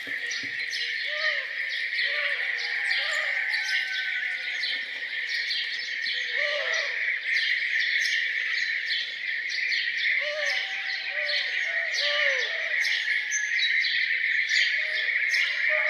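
A dense morning chorus of many birds chirping and singing, with a lower, arched call repeated in short runs of two or three a few times.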